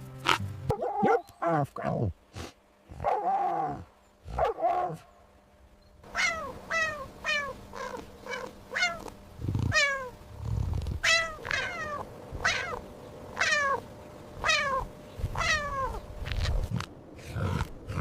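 A series of animal calls: a few pitched calls at first, then from about six seconds in a long run of short calls that each fall steeply in pitch, repeating roughly every half second to a second.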